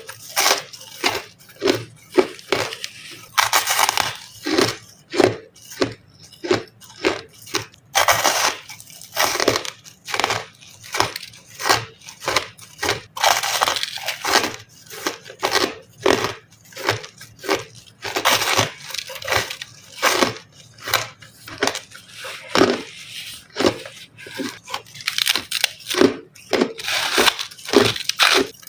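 Close-up crunching of crushed ice being bitten, a quick irregular run of sharp, crackling crunches, about two to three a second, with some longer grinding bites.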